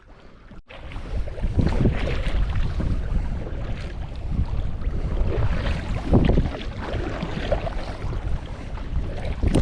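Canoe being paddled on open water, with wind rumbling on the microphone and a few louder swells of water and wind.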